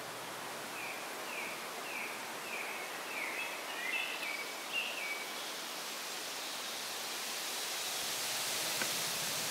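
A small bird sings a run of short, falling whistled notes, about two a second, from about one second in until about five seconds in. Under it is a steady hiss of outdoor background noise that swells toward the end.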